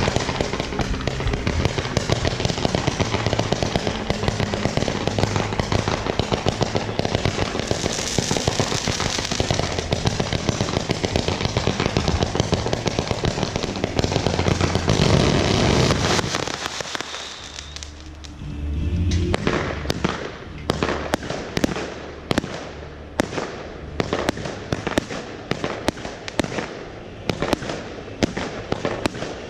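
Fireworks display: a dense run of rapid bangs and crackling for about the first sixteen seconds, swelling just before it thins out. After a short lull comes a series of separate sharp bangs, several a second.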